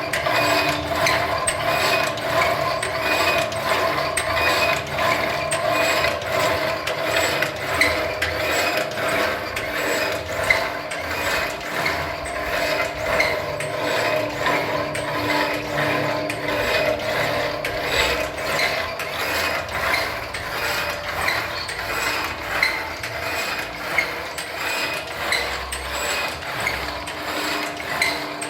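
Semi-automatic screen printing machine running: a steady motor hum with regular mechanical clicks about twice a second as it cycles.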